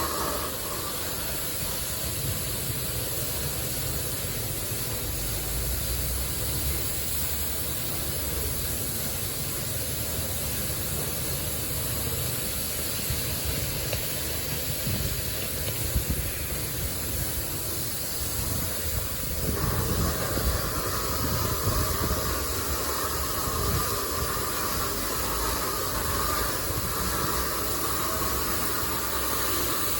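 LaserWash 360 touchless car wash spraying high-pressure water over a car: a steady hiss with a low rumble beneath. About two-thirds of the way through the sound shifts and a higher hiss comes in.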